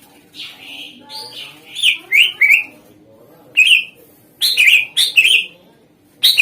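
Cucak ijo (greater green leafbird) singing in several short bursts of sharp chirps and quick falling whistled notes, with brief pauses between the phrases.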